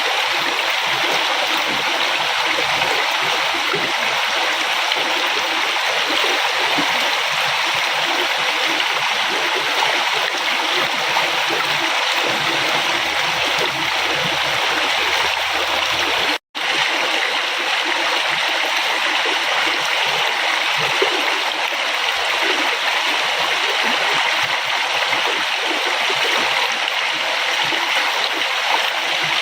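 Flowing river: a steady rush and babble of water. It drops out for an instant about halfway through.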